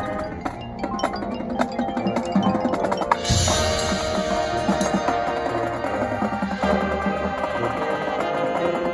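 Marching band show music carried by the front ensemble's mallet percussion and chimes, with many struck notes over held chords; a cymbal wash comes in about three seconds in.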